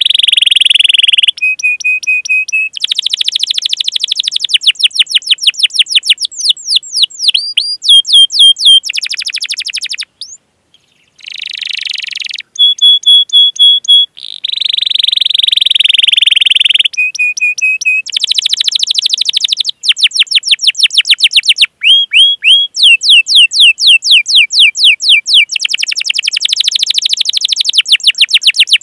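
Domestic canary singing a long, loud song: fast rolling trills of repeated sweeping notes alternate with held steady whistles and chirps. The song breaks off briefly about ten seconds in.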